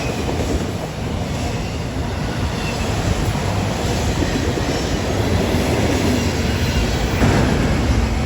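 Freight cars rolling past on the rails: a steady, loud rumble of wheels on track with faint knocks, swelling slightly near the end.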